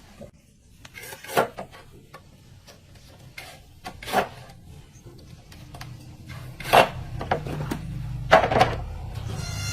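Hand-work noises in a repair shop: a series of scrapes and knocks, four of them louder, over a low hum that grows louder in the second half.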